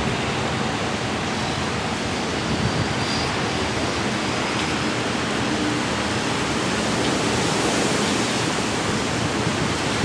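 Tropical-storm-force wind from Hurricane Sandy, a steady loud rushing noise.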